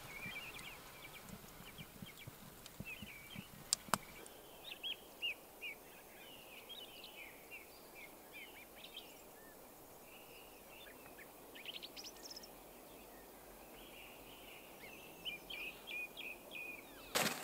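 Small birds chirping and twittering faintly, many short calls, over a faint steady hiss; a single sharp click about four seconds in.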